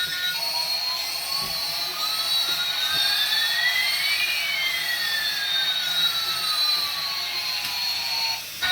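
Electronic jet-like whine: a steady high tone with two pitches gliding past each other, one rising and one falling over several seconds, crossing about halfway through.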